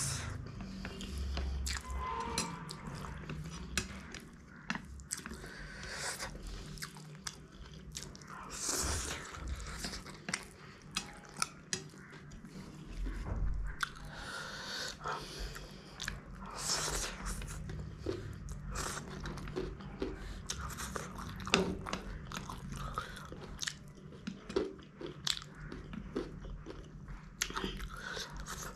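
Close-miked eating: biting and chewing of spicy instant noodles and an egg roll, with many short sharp clicks of the wooden chopsticks against the steel plate.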